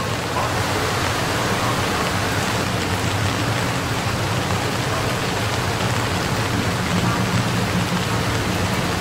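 Rain falling steadily, an even hiss, with a low steady hum underneath.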